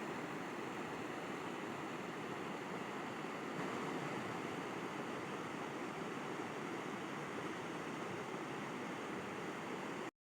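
River water flowing and rushing steadily, an even wash of sound that cuts off abruptly to silence just before the end.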